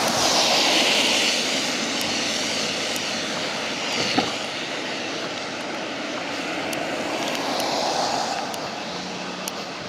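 Vehicles passing on a wet road. Tyre hiss swells about a second in and again near the end, and there is a single knock about four seconds in.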